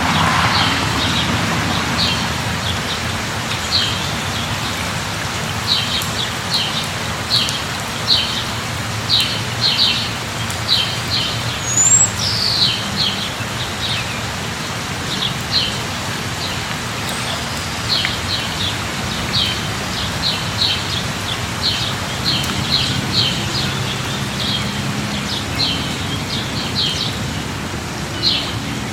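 Steady rain falling on surfaces, with a small bird giving short high chirps over and over through it, and a faint low hum underneath.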